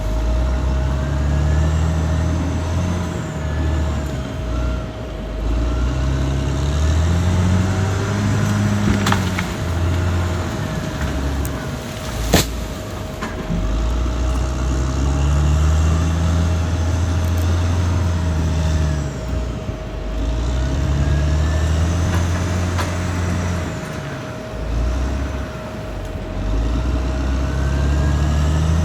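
Caterpillar D6R XL bulldozer's diesel engine working, its pitch repeatedly rising and falling as it takes and sheds load every few seconds, with a sharp knock about twelve seconds in.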